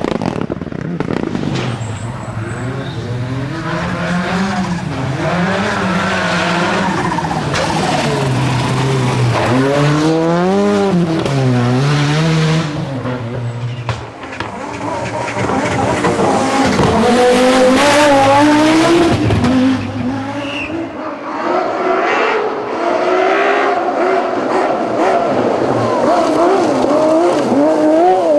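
Rally car engines driven hard on a special stage, their pitch rising and falling repeatedly as they rev up, change gear and lift off. The sound changes about halfway through and again near the end, as if to a different car.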